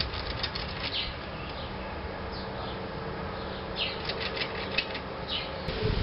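Small birds calling off-screen: short, high chirps in a few quick runs, the busiest run about two-thirds of the way in, over a steady low hum.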